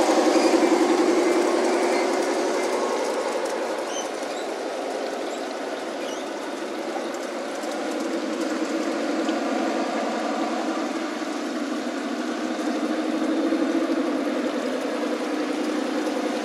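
Garden-scale model railcar running along the track: a steady buzzing drone of its motor, gears and wheels, loudest at the start and swelling again about thirteen seconds in as it comes closer.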